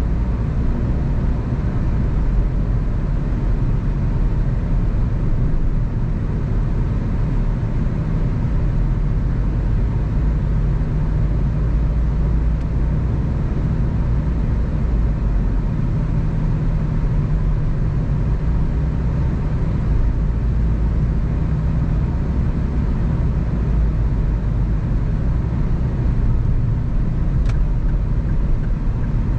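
Car driving along a road: a steady low rumble of engine and tyre noise. A single faint click comes near the end.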